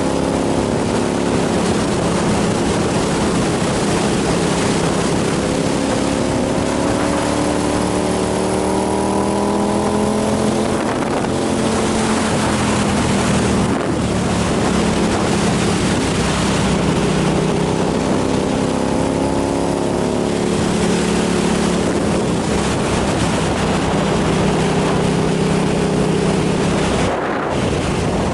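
Motorcycle engine running at speed under wind rush on the microphone, its pitch rising and falling as the revs change, with a brief drop in engine sound near the end.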